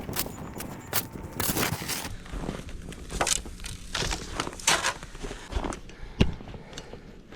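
Crunching footsteps through snow, irregular steps roughly every half second to a second.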